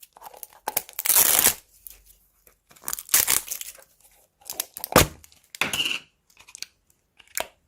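Crunchy slime being squeezed and worked by hand, giving separate bursts of crackling and crunching with short pauses between them.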